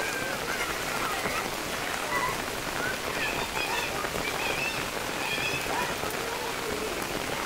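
Heavy rain falling steadily onto standing floodwater and the ground, an even, continuous hiss of drops hitting the water's surface.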